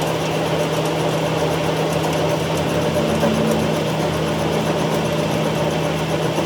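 Machinery running steadily with a constant low hum and rattle.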